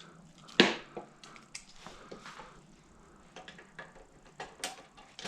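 Hand tools and metal parts being handled during bolt-up of a push mower's carburetor: one sharp knock about half a second in, then scattered light clicks and taps, with a sharper tap near the end.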